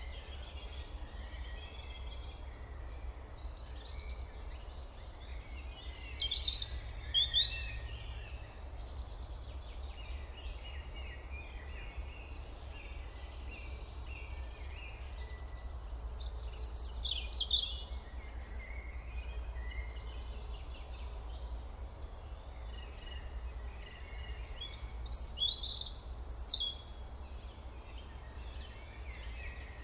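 Birds chirping and singing, with a louder song phrase three times, about every ten seconds, over a steady low hum.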